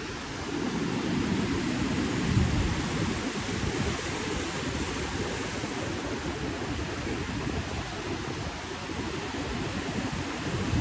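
Ocean surf washing steadily, with a low rumble that swells about a second in and again briefly near the end.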